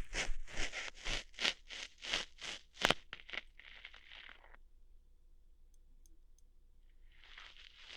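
Close-up ASMR ear-hair plucking sounds: a quick run of scratchy, crackling snaps at about two to three a second, one sharper than the rest. They stop about four and a half seconds in and start again near the end.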